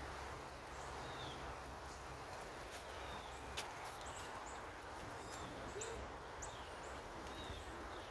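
Faint bird chirps, short high notes about every second or so, over a steady low hum with a few light clicks.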